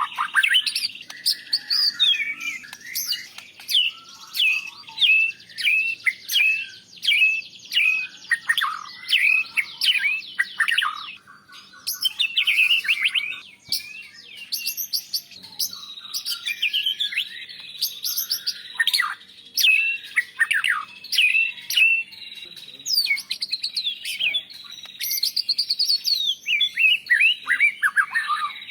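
White-rumped shama (murai batu) singing a loud, varied song of quick whistled notes, many sweeping down in pitch, in rapid runs broken by short pauses; the song carries phrases mimicked from other birds.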